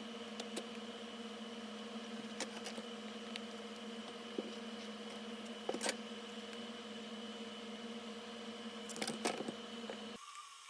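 A steady machine hum, with a few sharp clicks and taps of tools being handled and a small cluster of clicks near the end. The hum cuts off suddenly just before the end.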